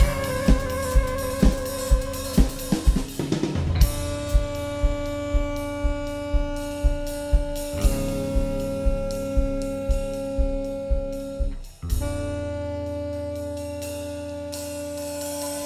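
Jazz-fusion band music: a drum kit keeps a steady beat of about two kicks a second under long held chords, with a wavering held note in the first few seconds. The drums drop out about twelve seconds in, leaving only the sustained chords.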